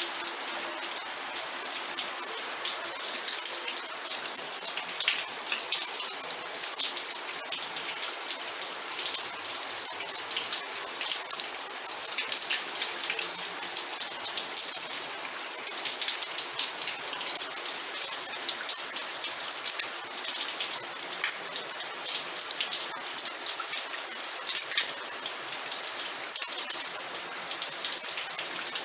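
Steady rain falling, a dense even hiss of many close drop ticks, steady in level throughout.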